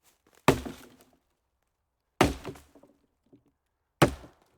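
Three sharp impacts, each about two seconds apart and each trailing off briefly with a rattle.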